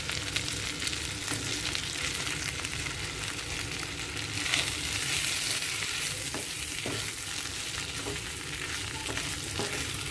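Potato wedges and stuffed brinjals sizzling in oil in a kadhai while a wooden spatula stirs them together, with a few scrapes and knocks of the spatula against the pan. The sizzle swells a little about halfway through.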